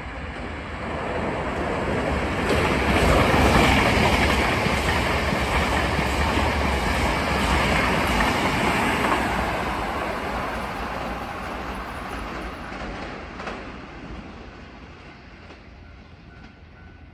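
Hankyu 9000 series electric train (set 9006F) running through the station at speed without stopping: the rush of its wheels on the rails builds quickly, is loudest a few seconds in, holds, then fades away as it departs.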